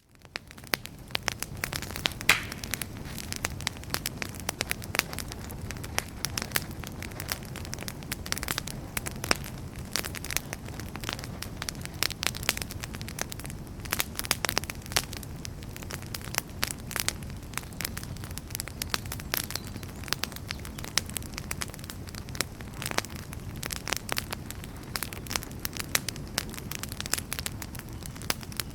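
Campfire crackling: a dense, irregular run of sharp pops and snaps over a steady low rush of burning. It fades in over the first second.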